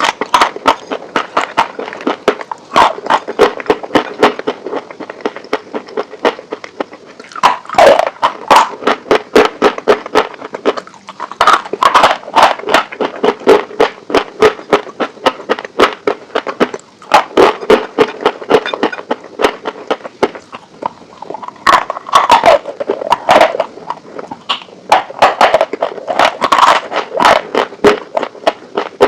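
Close-miked crunching and chewing of crispy fried chicken wings: many sharp crunches in quick succession, with clusters of louder ones every few seconds as fresh bites are taken.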